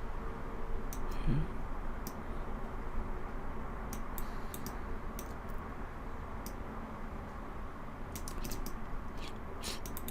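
Scattered computer keyboard and mouse clicks, single and in small clusters, over a steady low hum.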